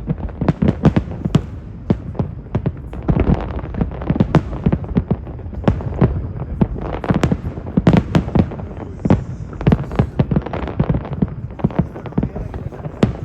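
Aerial fireworks going off in quick, irregular succession: a dense barrage of sharp bangs and crackles, several a second.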